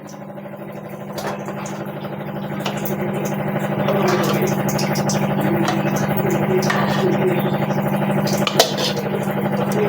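A steady droning motor hum that grows louder over the first few seconds and then holds, with a few sharp clinks of utensils.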